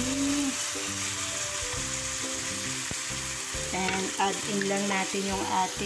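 Diced onion, tomato and salami sizzling in hot oil in a nonstick frying pan, stirred with a wooden spatula, as the sauté cooks on full heat. Background music with a melody plays under the sizzle.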